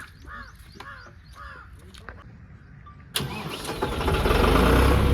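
A crow cawing repeatedly, then about three seconds in an engine starts suddenly and runs loud with a heavy rumble.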